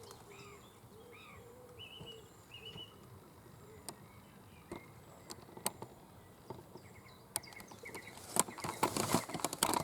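Faint birdsong in the background, then scattered sharp clicks and crackles that thicken into a dense run over the last two seconds, the sound of bark and twigs being handled at a hole in an oak trunk.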